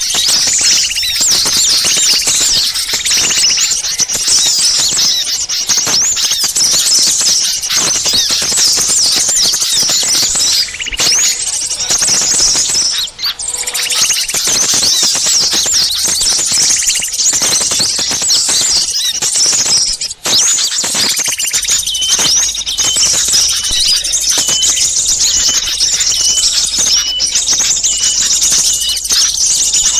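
Bird-lure recording of a noisy flock of small songbirds: dense, high-pitched chirping and twittering without pause. From about two-thirds in, a short note repeats steadily over the chatter.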